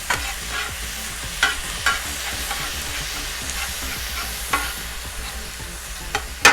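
Ground turkey frying in a cast iron skillet, with a steady sizzle. A utensil scrapes and clacks against the pan now and then as the meat is stirred, with one sharp knock near the end.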